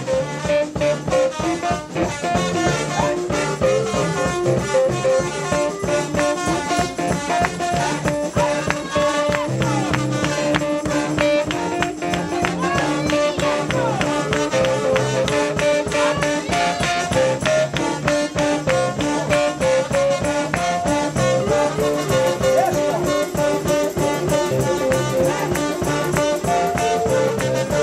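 Instrumental break of an upbeat gospel song: a band playing with a steady, fast beat under a melodic lead.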